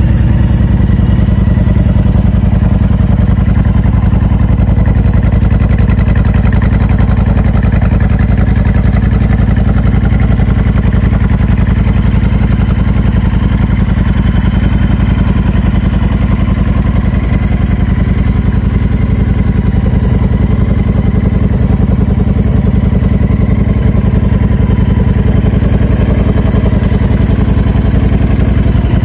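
Motorcycle V-twin engine idling steadily, the 2014 Honda Fury's 1,312 cc liquid-cooled V-twin breathing through an aftermarket Cobra Speedster swept exhaust.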